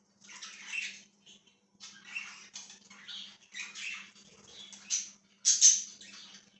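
Pet budgerigars chattering and chirping in a run of short, scratchy bursts, loudest about five and a half seconds in.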